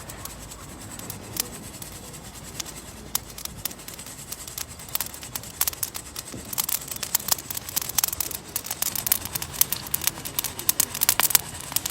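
Coffee beans roasting in a mesh sieve over a campfire, popping as they crack: sharp pops, few at first, then coming much faster from about halfway through.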